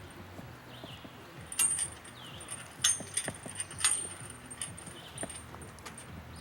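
Sharp metallic clinks with a ringing jingle, three loud ones about one and a half, three and four seconds in and lighter taps between, with a few faint short chirps behind.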